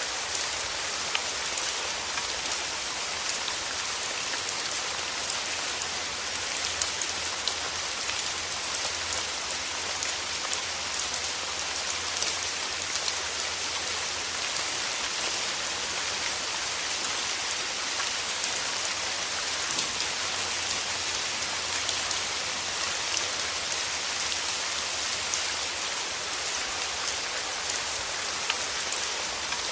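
Steady rain falling in a forest, a dense even hiss with many small drop ticks on leaves and surfaces.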